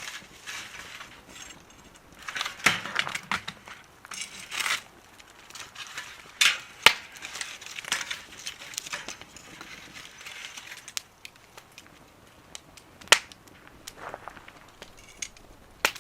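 Wood fire burning in a small wood stove, crackling and hissing, with several sharp pops from the burning wood.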